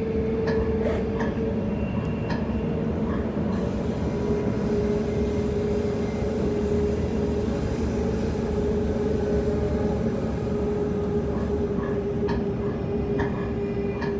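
Transperth Bombardier B-series electric multiple unit running at speed, heard from inside the passenger car: a steady rumble of wheels on rail with a whine held at one pitch, and a few light clicks near the start and again near the end.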